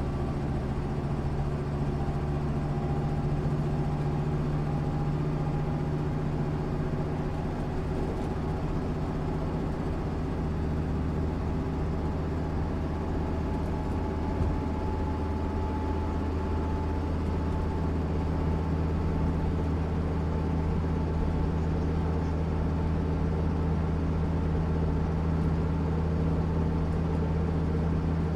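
1996 MAN SÜ 272 bus's diesel engine running steadily, a low even engine note whose pitch shifts slightly midway and then holds.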